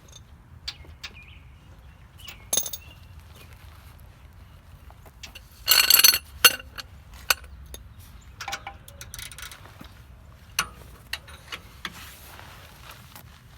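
Metal tools and parts clinking and knocking during hand work on a car, with a short, loud rattling burst about six seconds in.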